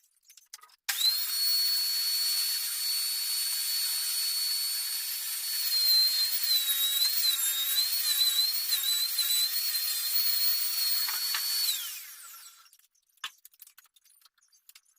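A handheld power tool's motor starts about a second in and runs at a steady high-pitched whine. The pitch dips and wavers for a few seconds in the middle as it works under load, then the motor is switched off and winds down.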